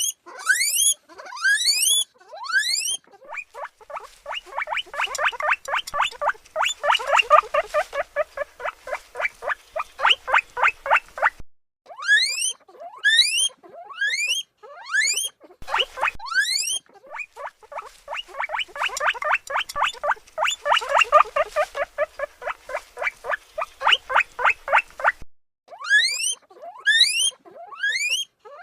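Guinea pig wheeking: loud rising whistles, then a long fast run of short squeaks, several a second. The whole sequence plays through twice.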